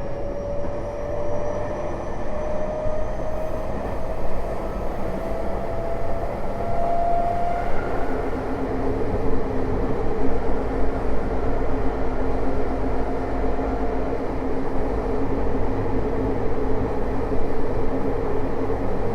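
Tokyo Metro 05 series train with a Mitsubishi IGBT VVVF inverter running, heard from inside the car. The inverter and traction motors give a whine that rises slowly in pitch as the train accelerates and stops about eight seconds in. After that a steady motor hum carries on over the constant rumble of wheels on rail.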